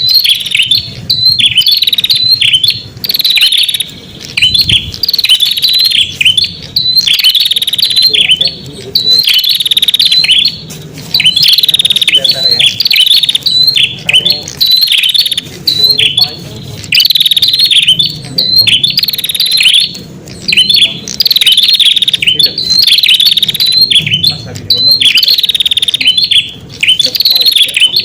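Prenjak (red-headed prenjak) song played as a bird lure: loud, rapid chirping phrases about a second long, repeated over and over with short gaps.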